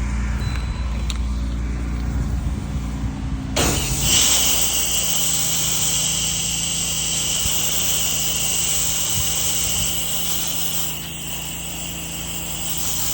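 Engine running steadily, then about three and a half seconds in a pressure-washer spray opens up with a loud, steady hiss of water jetting, which keeps going over the engine hum.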